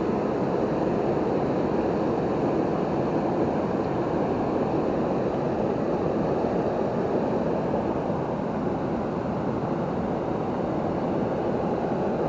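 A waterfall's falling water rushing steadily, as an even roar with no breaks.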